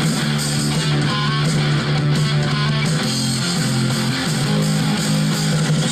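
Guitar music played back at maximum volume through Logitech Z150 stereo desktop speakers, loud and continuous, with strong low notes.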